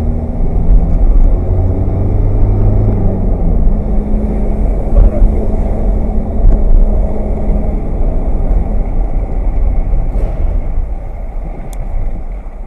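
Steady low rumble of a motor vehicle driving: engine and road noise with a few low engine tones that shift in pitch.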